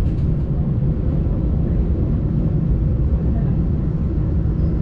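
Steady low rumble of a moving train, heard from on board.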